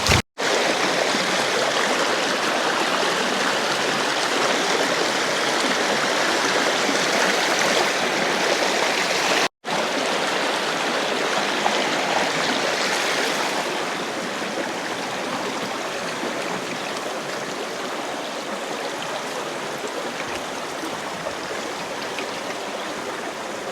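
Stream water rushing steadily over rocks, broken by two very brief silences and a little quieter in the second half.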